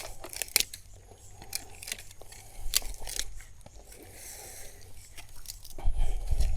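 Dry twigs and sticks crunching and snapping as they are handled and laid down to build a base for a campfire, with irregular sharp cracks and a dull low bump near the end.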